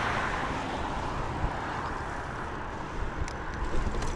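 A passing car's road noise fading away, over a steady wind rumble on the microphone as the bicycle rides across the street. A few sharp clicks come near the end.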